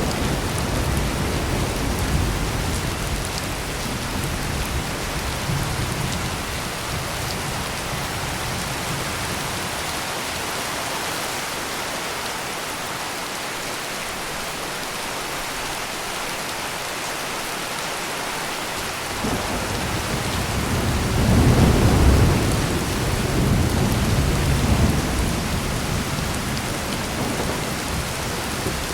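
Heavy rain pouring steadily, with thunder rumbling at the start and dying away. About two-thirds of the way through a fresh roll of thunder builds, is loudest a couple of seconds later, and rumbles on for a few seconds more.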